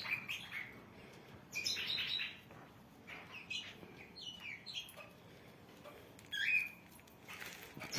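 Cockatiels in an aviary calling: scattered short chirps and whistled calls, in clusters about two, four and six and a half seconds in.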